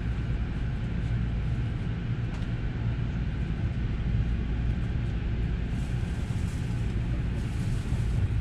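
Inside the Green car of a JR West 281 series Haruka limited express pulling out of the station: the train's steady low running rumble, with a little added hiss and rattle about six seconds in and again near the end.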